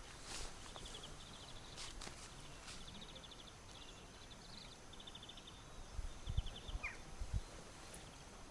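Short, high rattling trills from a small animal, repeated every half second to second over a faint outdoor hiss, with a few soft low thumps in the second half.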